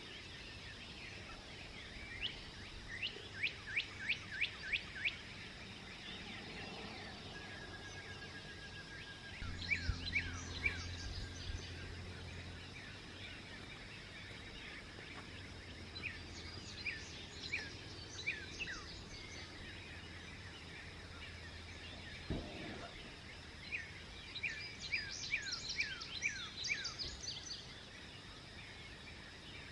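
Songbirds singing at dawn: four bursts of quick, falling chirps over a steady outdoor hiss. A low steady hum runs through the middle of the stretch, and there is a single soft knock shortly after it.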